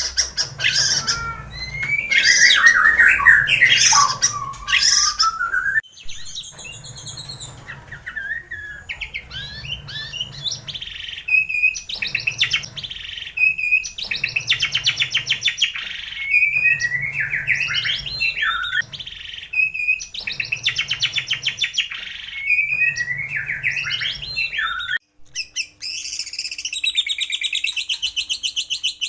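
White-rumped shama song from a recording: loud, varied whistles and rapid trills, then a short buzzy phrase repeated about every two seconds with a low hum under each repeat. Near the end it cuts to a different, steadier high trill.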